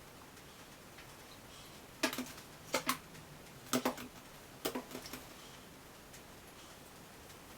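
Several short, sharp knocks, some in quick pairs, between about two and five seconds in, over faint room hiss.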